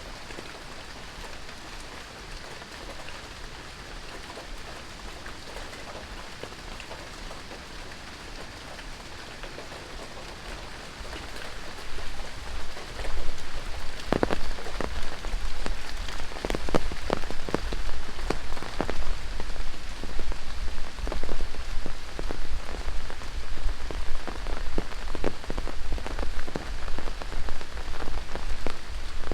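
Rain falling in tropical rainforest, a steady hiss that turns much louder about twelve seconds in, with many close, sharp drop impacts over a low rumble.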